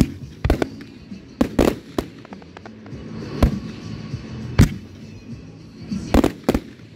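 Fireworks display: aerial shells bursting in a string of sharp bangs, about nine, irregularly spaced, some coming in quick pairs.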